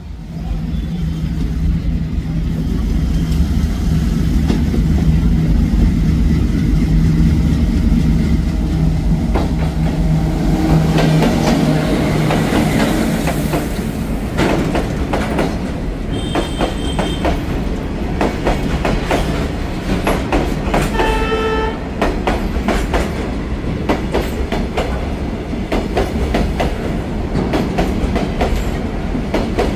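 Bangladesh Railway diesel train passing close by: the locomotive's engine runs with a deep steady hum, then about halfway through the wheels set up a rhythmic clickety-clack over the rail joints as the cars roll past. There are two short horn blasts, at about 16 and 21 seconds.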